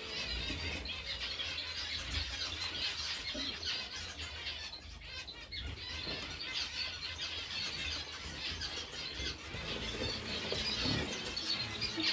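A flock of aviary birds calling continuously: many overlapping high chirps and squeals, with some wing flapping.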